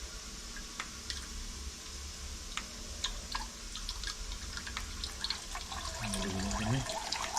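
Diesel fuel draining out of a removed fuel filter, a trickle with many small drips and splashes. A voice is heard briefly near the end.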